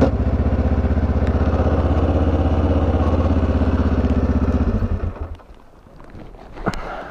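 Kawasaki KLE500 parallel-twin engine idling with a steady pulsing beat, which to the rider is noisier than usual, then shut off about four and a half seconds in. A single sharp knock near the end.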